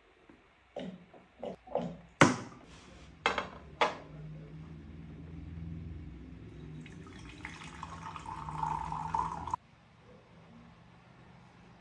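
Several knocks and clatters, then water running steadily into a container, growing louder before it cuts off suddenly.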